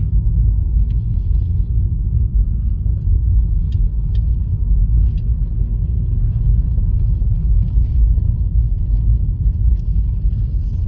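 Steady low rumble inside a Honda Fit's cabin, with a few faint small clicks.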